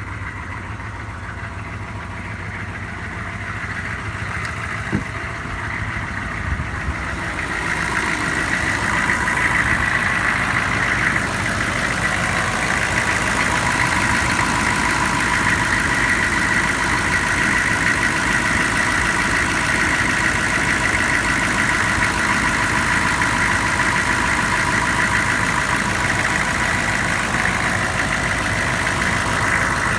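Engine idling shortly after a cold start; it grows louder about eight seconds in, then runs steadily.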